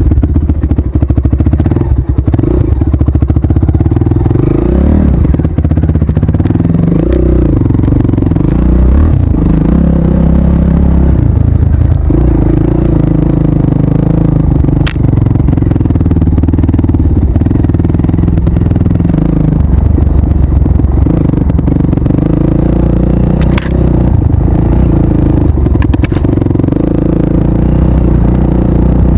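Off-road trail motorcycle engine running loud and close, its pitch wavering up and down as it rides, with a few sharp clicks and rattles.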